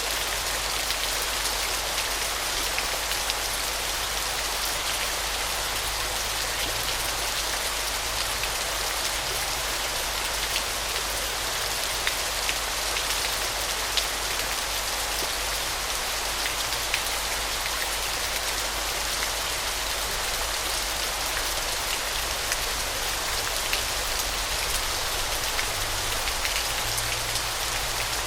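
Waterfall: a steady hiss of falling water, mostly high in pitch, with scattered small splashes.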